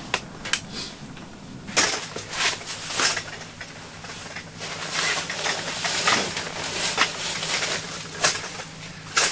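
Gear being handled while a tent is set up: a string of sharp clicks and knocks with rustling between them, over a faint steady low hum.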